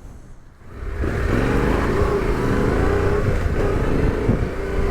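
Yamaha Ténéré 700's parallel-twin engine pulling away about a second in, then running steadily as the motorcycle rides on.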